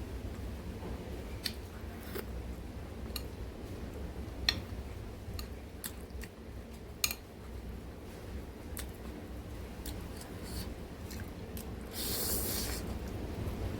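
Close-up eating of ramen noodles and boiled egg: scattered wet mouth clicks and chewing, with a brief louder noisy burst near the end.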